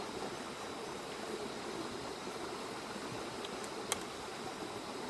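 River rapids rushing steadily nearby: an even, unbroken water noise. A single sharp click about four seconds in.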